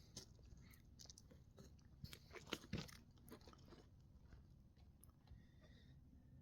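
Near silence, with a few faint crunching clicks about two to three seconds in.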